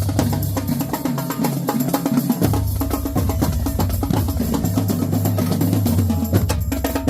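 Marching drumline playing a fast cadence: rapid snare strokes and sharp rim clicks over pitched bass drums. The low bass drum notes drop out for about a second and a half, then come back in.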